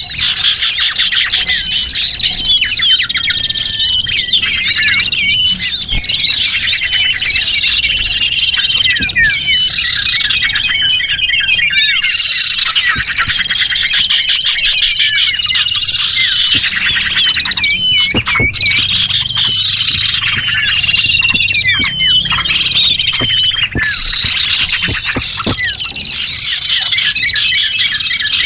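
A dense chorus of many small songbirds chirping and twittering without a break, with quick overlapping chirps and short held whistles. It is a lure recording made to draw small birds in.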